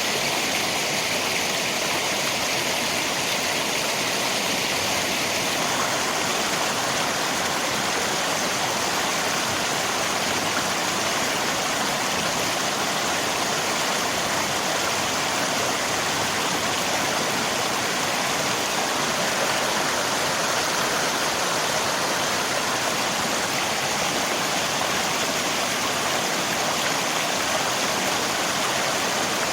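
River water rushing steadily, mixed with the sound of rain.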